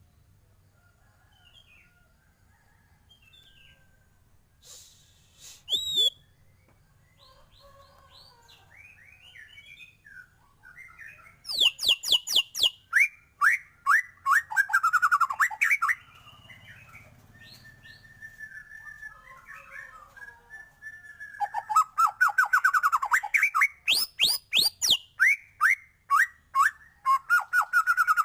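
White-rumped shama singing a song full of learned phrases. It starts with soft, scattered whistled notes, then about a third of the way in breaks into loud, rapid runs of sharp clicking notes and falling whistles, pauses briefly, and resumes for the last third.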